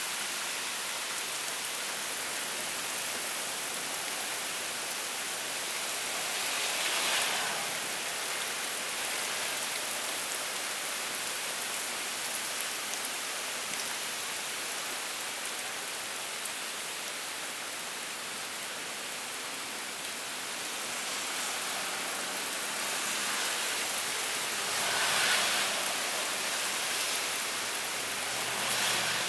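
Heavy rain pouring steadily in a cold-front downpour, swelling briefly louder twice, about a quarter of the way in and again near the end.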